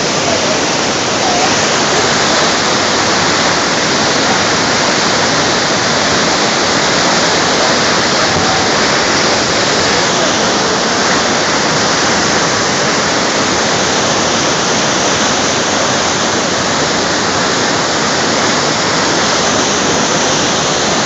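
Sa'ar waterfall in winter spate, a loud, steady rush of water.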